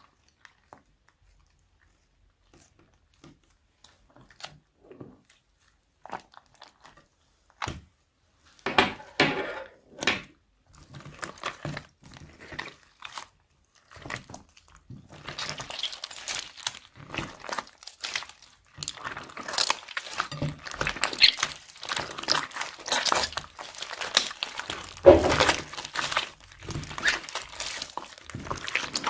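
Slime being worked in plastic bags: crinkling plastic and squishy, crackly handling. A few soft clicks at first, then it grows into near-continuous crinkling from about halfway.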